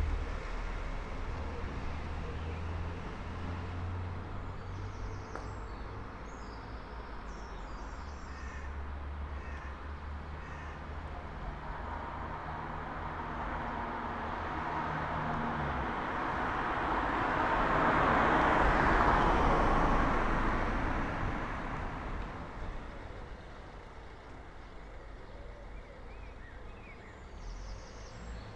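Early-morning street ambience: a car passes by, its tyre noise building to a peak about two-thirds of the way through and then fading. Birds call briefly in the first third.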